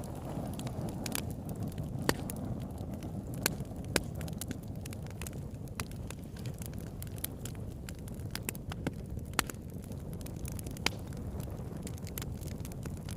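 Campfire burning: a steady low rumble of flames with irregular sharp crackles and pops from the burning wood, a handful of them louder than the rest.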